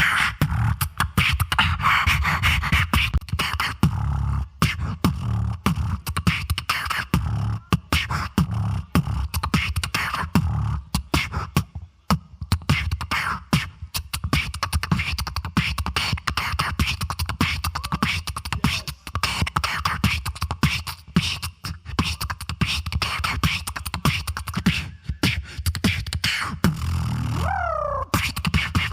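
Solo beatboxing amplified through a PA: dense rapid percussive mouth sounds over a heavy low bass, with short sliding pitched vocal sounds near the end.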